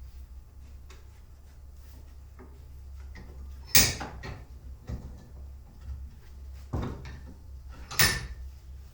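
Two loud sharp knocks about four seconds apart, with a few fainter knocks and scrapes between them, over a low steady hum.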